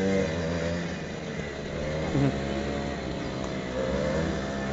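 Quad bike engines running and revving on a track, their pitch rising and falling as the riders accelerate and ease off.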